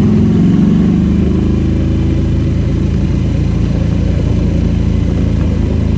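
Harley-Davidson V-twin motorcycle engine running. Its pitch drops a little in the first second or so, then holds steady.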